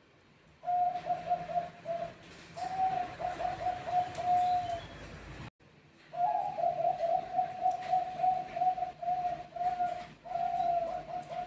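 Zebra doves (Bangkok perkutut) singing their rapid staccato cooing phrases, several birds answering one another. The sound breaks off briefly about five and a half seconds in, then a long unbroken run of cooing follows.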